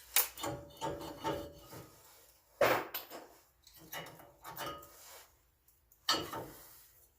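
Metal knocks and clinks with some scraping as brake parts behind a truck's front wheel are handled and worked at. Three sharper knocks stand out: just after the start, about two and a half seconds in, and about six seconds in.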